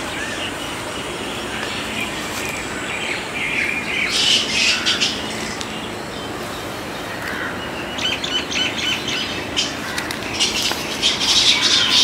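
Small birds chirping in short clusters of quick high calls, about four seconds in, again around eight seconds, and near the end, over a steady noisy background.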